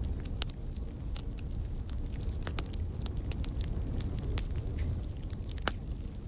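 Wood fire crackling in a fireplace: frequent sharp, irregular pops over a steady low rumble, with one louder pop near the end.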